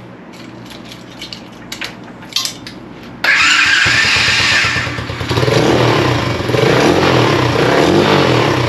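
Pit bike engine, fitted with a new muffler, starting up suddenly about three seconds in after a few light clicks. It then runs and is revved up and down repeatedly.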